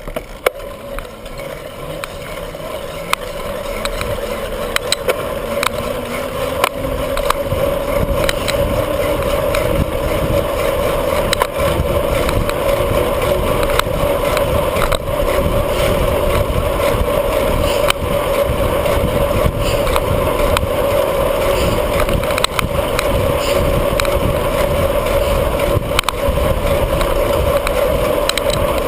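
Bicycle ridden at speed: tyre rumble on the pavement and wind on the microphone, building over the first few seconds as the bike gathers speed and then holding steady, with frequent small rattles and clicks.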